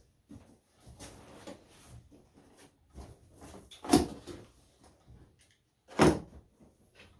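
Beehive kit parts being handled and pulled out of a cardboard box: light rustling and small clicks, with two loud knocks, about four and six seconds in, as pieces are set down.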